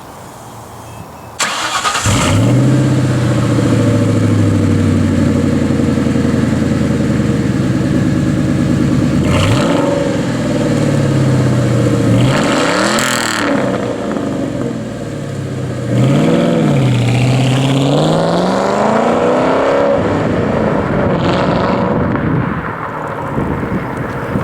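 Ford Mustang V8 with an SLP Loudmouth aftermarket exhaust starting up about a second in and settling into a loud idle. It is then revved several times, each rev rising and falling back to idle.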